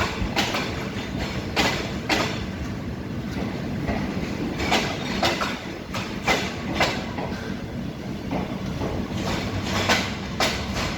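Train rolling slowly over rail joints: pairs of wheel clacks about half a second apart, repeating every second or two, over a steady low rumble.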